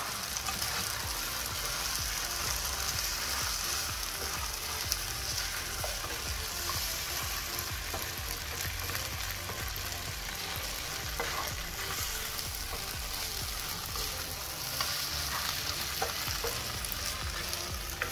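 Mutton curry sizzling steadily in a non-stick pan over a gas flame, while a wooden spatula stirs through it, with a few light knocks against the pan.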